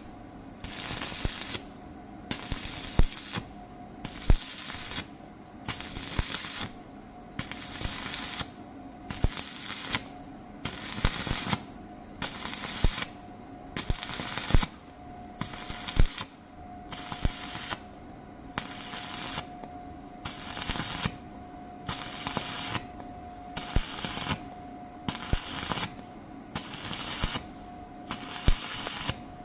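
Stick-welding arc crackling as a horizontal weld is run, swelling and fading in an even rhythm about three times every two seconds, with sharp pops now and then.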